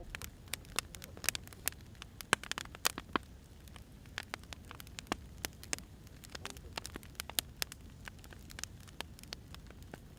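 Wood fire crackling, with irregular sharp pops and snaps over a low, steady rumble of burning logs.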